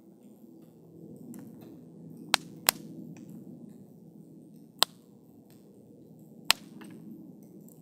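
Wood campfire burning: a soft steady rush of flame with small crackles, broken by four sharp pops of burning wood, two close together a couple of seconds in, one near the middle and one later.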